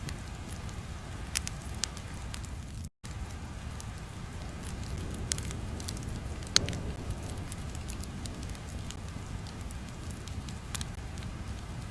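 Crackling fire ambience: a steady low rumble with scattered sharp pops, one louder pop near the middle. The sound drops out to silence for a moment about three seconds in.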